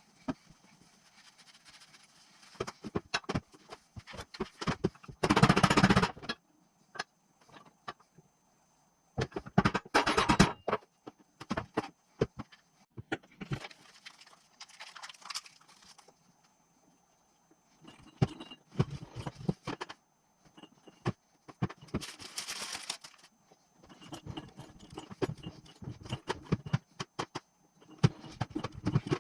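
Metal engine parts and hand tools being handled during engine assembly: irregular clinks, taps and knocks, with several louder rattling stretches.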